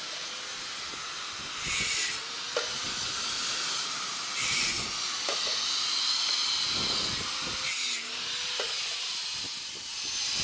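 Strong wind buffeting the microphone, an irregular low rumble, with several short hissing gusts about two to three seconds apart.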